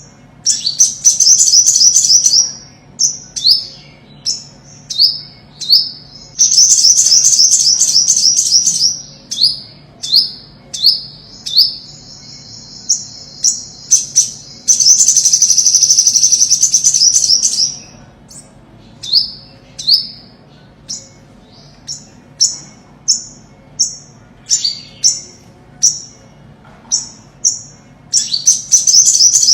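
Olive-backed sunbird singing: sharp, high, down-slurred chips about once a second, broken by several rapid high trills and, near the middle, one long buzzy trill of about five seconds.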